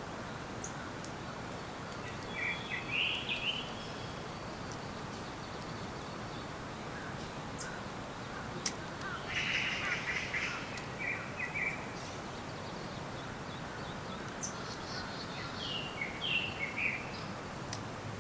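Songbirds calling in short clusters of quick chirps, three times, over a steady hiss of forest ambience.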